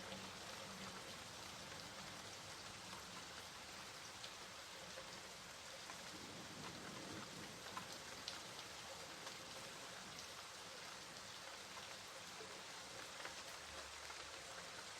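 Steady rain falling, a soft even hiss with scattered drop ticks.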